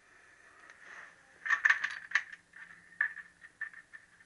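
Steel gearbox parts of a Triumph T120R, gears and loose thrust washers, clinking and rattling against each other as they are handled during strip-down. A quick cluster of sharp clinks comes about one and a half seconds in, then lighter scattered clicks.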